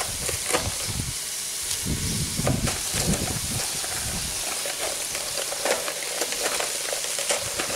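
Duck pieces and pepper strips sizzling steadily in a hot cast-iron skillet, with scattered pops and crackles. Frozen pepper strips are dropped into the hot fat, and steam rises off the pan.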